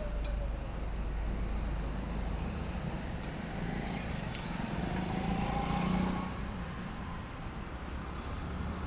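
Road traffic with a steady low rumble; a vehicle passes, growing louder to a peak about six seconds in and then fading.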